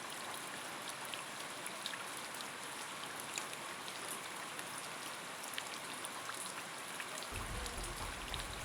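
Steady rain falling: an even hiss with scattered drop ticks. A low rumble joins near the end.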